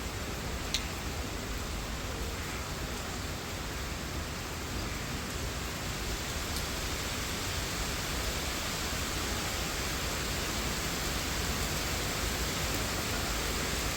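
Steady rain falling on leaves, a dense even hiss, with one sharp tick about a second in.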